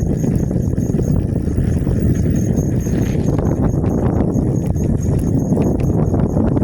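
Steady wind rumble on the microphone and rattling from an e-bike riding along a street, with a faint high whine that pulses a few times a second.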